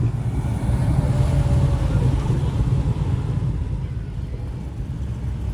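Classic car engine running as the car drives slowly out of the lot, a deep, steady low exhaust note.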